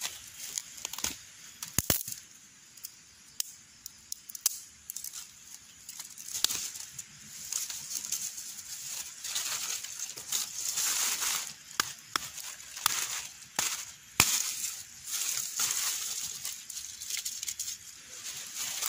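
Irregular rustling and crinkling with scattered sharp clicks and knocks, as crinkly material is handled.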